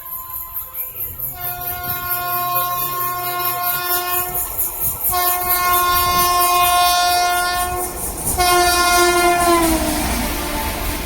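Locomotive horn of an approaching train sounding three long blasts, the last one dropping in pitch as the train passes, over the rising rumble of the train.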